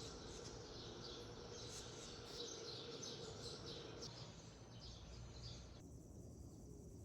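Faint outdoor ambience with small birds chirping repeatedly, the chirping cutting off abruptly about six seconds in.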